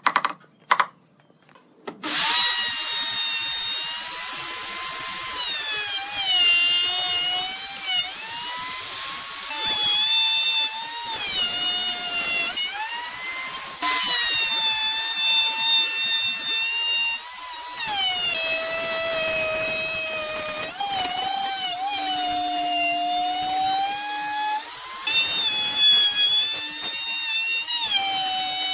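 A few sharp taps on wood, then about two seconds in an electric power tool starts cutting wood. Its motor whine dips and recovers over and over as the bit or blade takes load.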